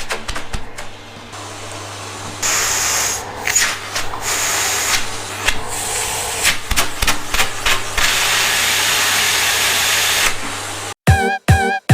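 Handling of the vacuum cleaner's packaging and plastic parts: rustling and scraping with many sharp clicks over a steady low hum. Music comes in near the end.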